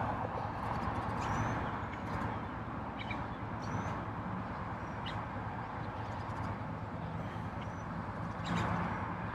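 Outdoor ambience: a steady hum of distant traffic with scattered short bird chirps.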